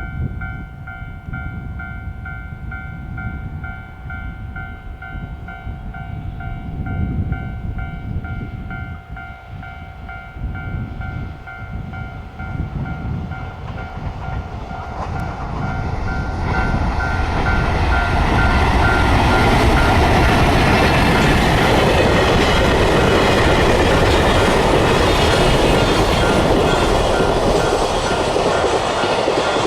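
Level-crossing alarm ringing with a steady, evenly pulsing tone. About 16 seconds in, a train arrives and passes through the crossing, and its loud running noise builds and drowns out the alarm for the rest of the time.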